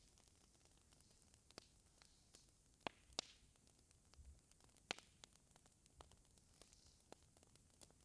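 Faint fireplace fire crackling: irregular sharp pops and ticks over a soft hiss, with a few louder pops around the middle.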